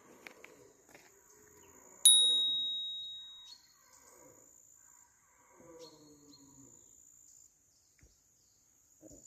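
A single bright metallic ding about two seconds in, one clear ringing tone that fades out over about a second and a half. A thin, steady high-pitched tone runs underneath.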